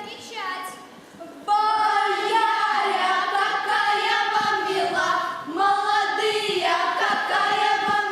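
A choir of young voices singing a melody together in long held notes, becoming louder and fuller about a second and a half in.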